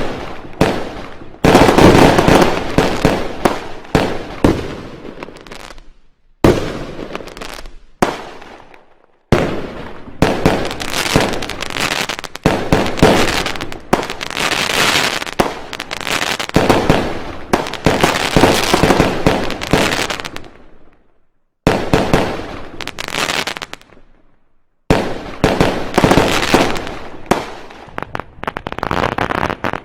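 Fireworks going off in volleys of rapid bangs and crackling. Each volley fades out, and brief silent gaps fall between them.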